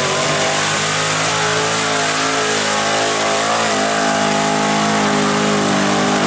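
Mud racing truck on tractor tires running flat out through the mud pit, its engine held at high revs, with a short dip in pitch about three and a half seconds in.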